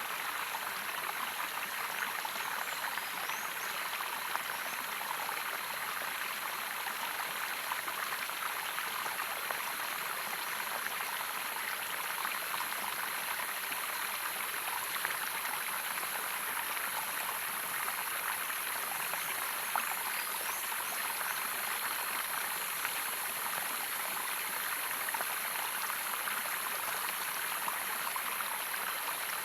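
Running water of a stream or small waterfall, splashing and rushing steadily without a break.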